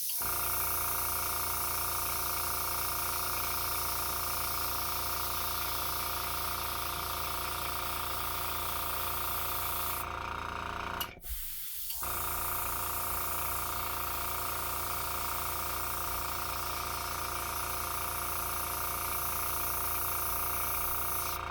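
Avanti airbrush spraying Pro-Line paint in a steady hiss over the constant hum of its compressor. Near the middle the sound breaks off for under a second, then the spraying resumes.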